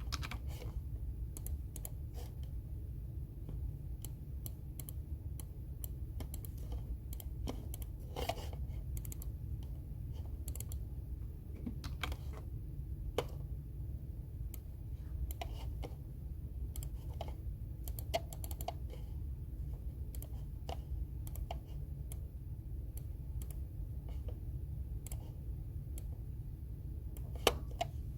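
Computer keyboard typing: irregular runs of key clicks over a steady low hum, with a couple of louder key strikes near the end.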